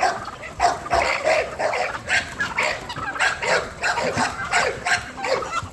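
Dog barking repeatedly in a fast, unbroken run of short barks, about three or four a second.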